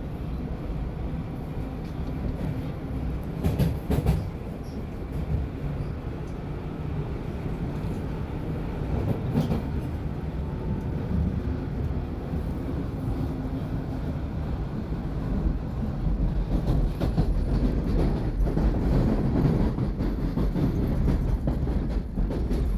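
Toronto subway Line 1 train running between stations, heard from inside the car: a steady rumble of wheels and running gear with a few sharp clacks from the rails. The rumble grows louder in the last several seconds.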